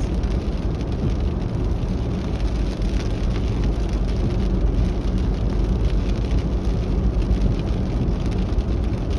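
Steady heavy rain pattering on a car, over the car's low running rumble.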